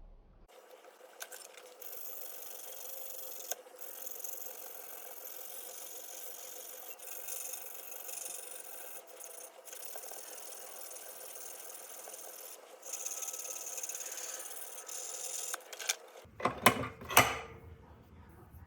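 Steady abrasive scrubbing on the parts of an antique leather-working awl, cleaning off rust. Near the end come a few louder knocks and clatters.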